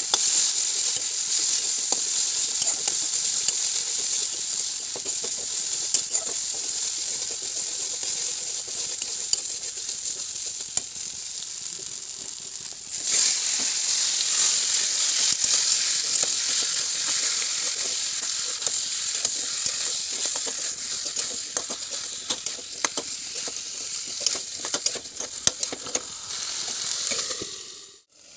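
Masala paste frying in hot oil in a steel kadai, sizzling steadily while a spatula stirs and scrapes it with many small clicks. About 13 seconds in the sizzling gets louder, with raw chicken pieces and potatoes now in the pan. It cuts out for a moment near the end.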